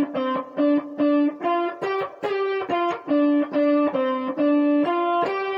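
Electric guitar playing a single-note blues phrase: a string of about a dozen picked notes, some with small slides between them, including slides down to the fourth.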